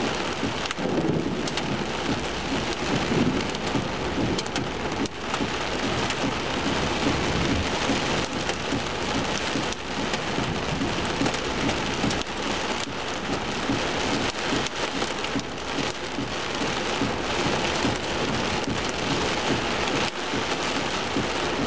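Hail and heavy rain pelting a pickup truck, heard from inside the closed cab: a dense, steady clatter of many small impacts.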